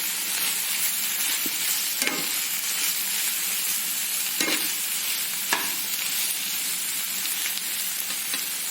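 Sliced onion and capsicum sizzling as they sauté in a pan, a steady frying hiss, with three brief knocks from stirring about two, four and a half, and five and a half seconds in.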